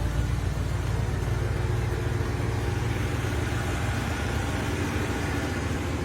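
A car engine running steadily at idle, an even low rumble.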